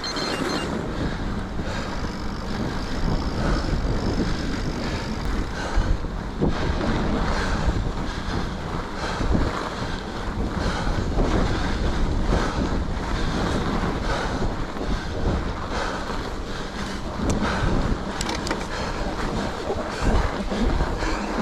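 Wind rushing over the microphone of a moving mountain bike, with the tyres rolling over a packed-snow trail, steady throughout.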